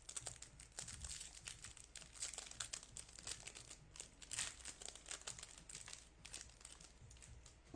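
Foil wrapper of a Topps baseball card pack crinkling and tearing as it is opened: quick, irregular crackles.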